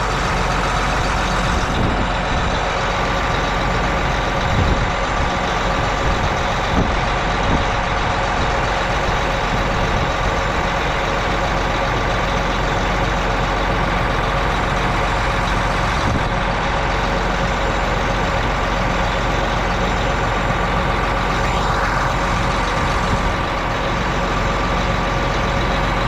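Truck engine running steadily, a constant rumble with a steady hum of higher tones over it.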